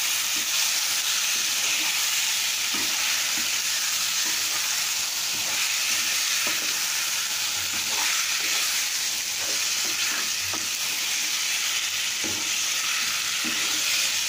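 Raw chicken pieces sizzling in hot oil with onions and masala in a kadai, stirred and tossed with a spatula. A steady frying hiss runs under irregular scrapes and knocks of the spatula against the pan.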